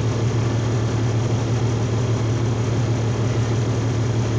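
Semi-truck diesel engine running steadily while parked, heard from inside the cab. It is going through a diesel particulate filter regeneration. A strong, even low tone runs throughout, without change.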